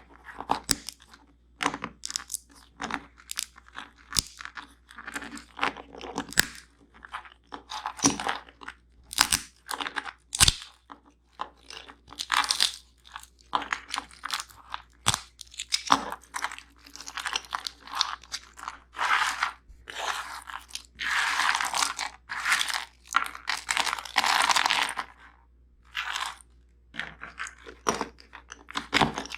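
Nuts and seeds crunching close to the microphone: a run of short, sharp, irregular crunches, then a longer stretch of continuous crackling about two-thirds of the way through.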